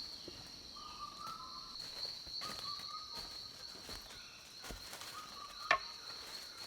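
Rainforest insects droning steadily at a high pitch, with a bird giving three short whistled notes. A single sharp click near the end is the loudest sound.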